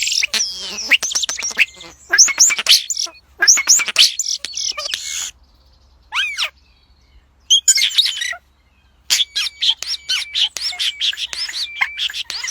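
A bird singing: rapid chirps and sweeping whistles in loud bursts, broken by short pauses in the middle.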